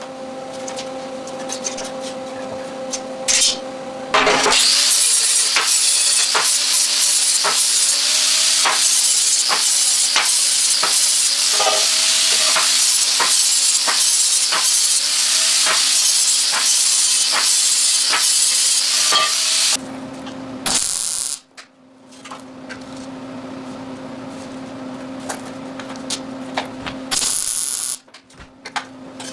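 Electric arc welding on a steel frame: a long weld of about fifteen seconds with a steady crackling sizzle, then a couple of short tack welds. A steady low hum runs between the welds.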